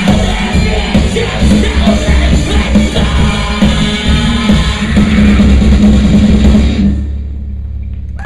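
Live post-hardcore band playing loud, with drums and guitars. About seven seconds in the band stops and only a low held note remains, cut off abruptly at the end.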